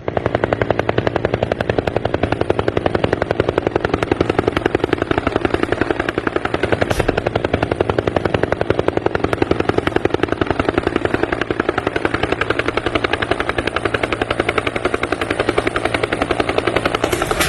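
Helicopter rotor chop: a fast, steady, even thudding that holds at the same rate throughout.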